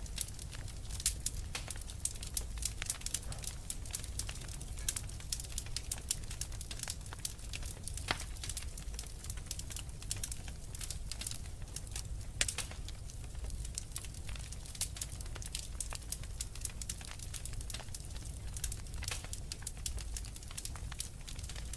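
Wood fire in a fireplace crackling, with many quick irregular pops and snaps over a low steady rumble of the flames.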